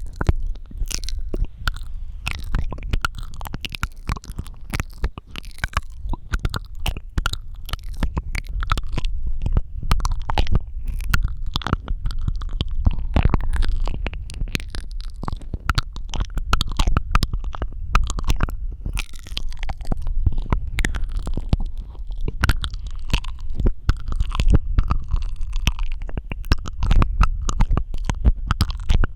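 Close-miked ASMR mouth sounds: a dense, irregular run of clicks and smacks, many a second, over a low rumble.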